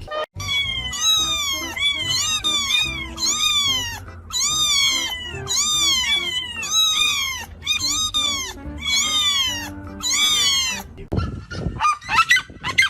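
A pet's repeated high calls, about ten rising-and-falling cries in a row, over background music.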